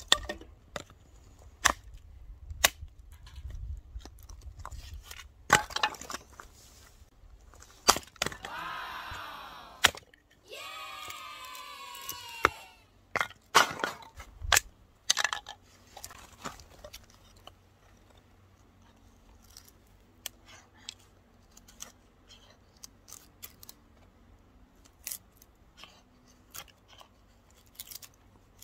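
A series of sharp cracks, clicks and knocks from things being handled, with two drawn-out rasping sounds of about two seconds each, starting about eight seconds in.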